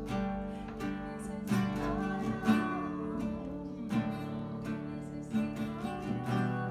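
Acoustic guitar strumming sustained chords in an instrumental passage of music, with a strummed attack roughly every second or so.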